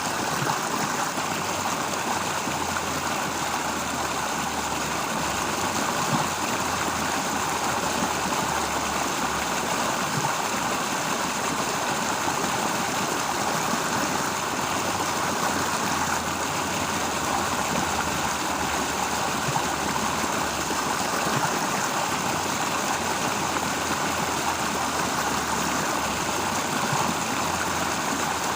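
Steady rushing of a flowing stream, unbroken throughout.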